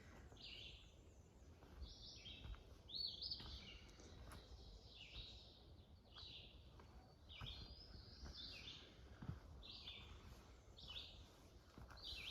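Songbirds singing faintly: short, high chirped phrases about once a second, over a soft outdoor background hiss.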